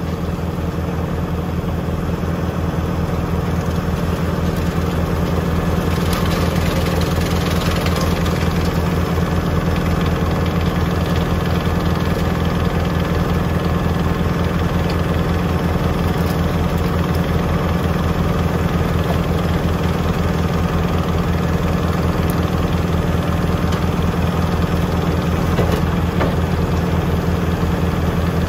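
Tractor engine running steadily at a constant speed, driving a wood chipper. A little more rushing noise joins about six seconds in.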